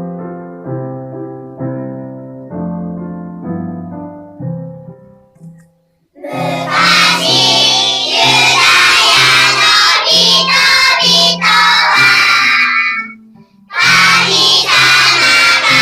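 A piano plays a short introduction of separate notes, then about six seconds in a group of children starts singing loudly with the accompaniment. The singing breaks off briefly near the end and starts again.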